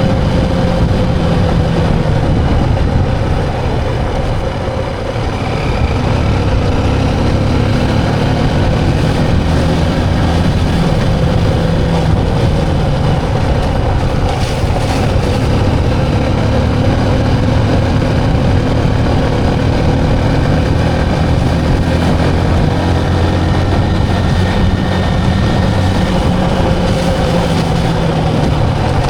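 Motorcycle engine running steadily on the move, its pitch drifting up and down slightly.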